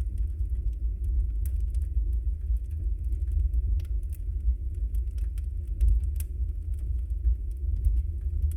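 Wood fire burning in a fireplace: a steady low roar of the flames with scattered sharp crackles and pops from the logs.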